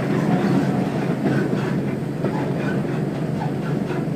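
Diesel railbus running along the track, heard from on board as it draws in to stop: a steady low engine drone with faint clicks of the wheels over rail joints.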